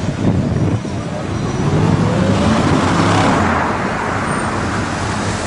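Street traffic with a car accelerating past, its engine note rising in pitch and loudest about three seconds in.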